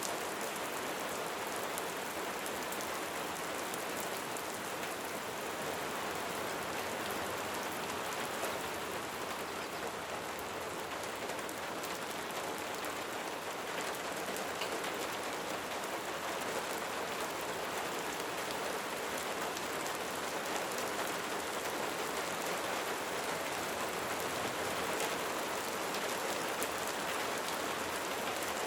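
Light rain falling steadily, a constant hiss with the soft pattering of individual raindrops on a surface.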